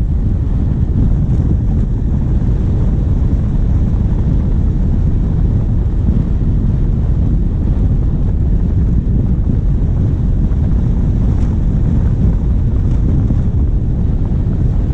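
Steady low rumble of wind buffeting a bonnet-mounted camera's microphone as the vehicle drives, over the diesel engine running underneath.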